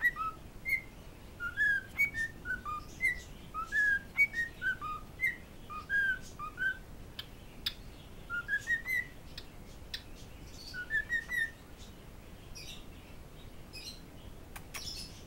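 Cockatiel whistling its song: a string of short, clear notes, some dipping and some climbing in quick runs, for about eleven seconds, then a few faint high chirps.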